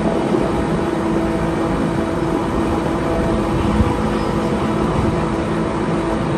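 Wengernalpbahn rack-railway train running, heard from an open window: a steady rumble of wheels and running gear with a low steady hum and rushing air.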